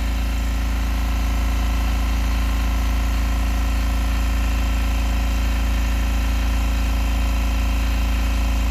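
Husky 4.5-gallon silent air compressor running steadily with its muffled motor hum, pumping up its tank toward the 175 psi cut-out.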